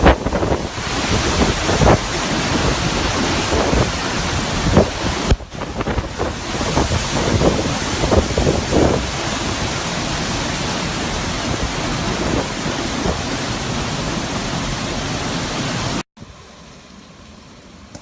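Hurricane wind blowing hard in gusts and buffeting the microphone. Near the end it cuts suddenly to a much quieter, steady hiss of rain.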